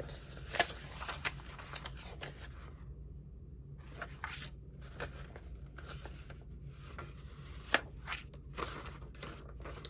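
Sheets of vellum paper being handled, giving scattered rustles and crinkles with a couple of sharper clicks, about half a second in and near eight seconds, over a faint steady low hum.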